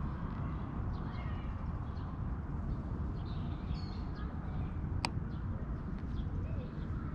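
Outdoor ambience: birds chirping now and then over a steady low rumble, with one sharp click about five seconds in.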